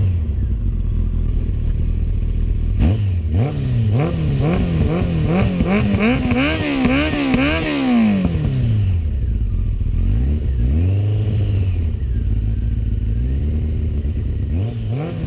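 Honda CBR1100XX's inline-four engine through a new exhaust, revved in a string of quick throttle blips with the pitch rising and falling. It drops back to idle about nine seconds in, gives one more rev, idles again, then revs once more near the end.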